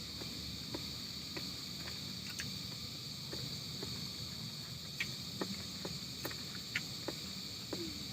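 Insects droning steadily at a high pitch, with a few scattered faint clicks and ticks over a low rumble.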